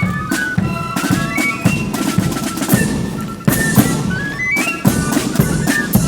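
Marching flute band playing: flutes carry a high melody with two quick rising runs, over steady bass drum and snare drum beats.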